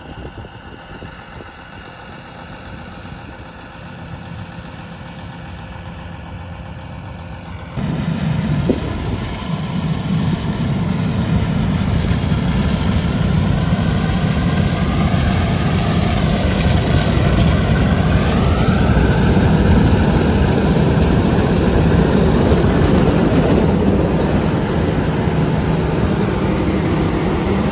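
Heavy farm-vehicle engine running steadily. About eight seconds in the sound jumps much louder and fuller, with a wavering whine over it for a few seconds midway.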